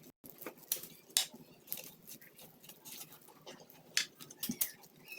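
Close-up eating sounds of boiled corn on the cob being bitten off and chewed: a run of irregular wet clicks, smacks and crunches of kernels.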